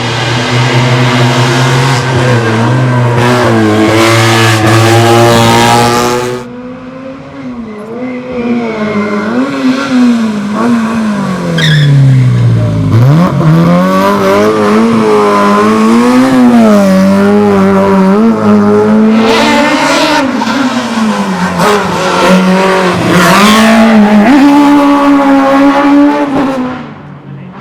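Racing prototype car engine revving hard, its pitch rising and falling repeatedly through the gears. The revs dip briefly about six seconds in, then fall low near the middle and climb again.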